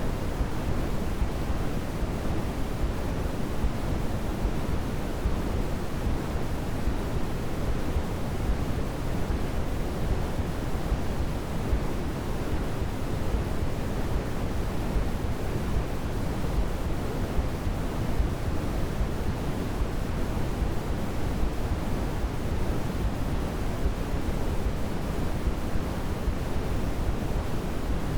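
Steady sleep-aid white noise: an even, unbroken hiss that is weighted toward the low end, so it sounds deeper and softer than pure white noise.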